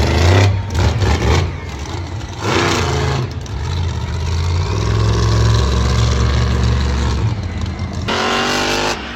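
Monster truck engine revving, a deep rumble that rises and falls in strength.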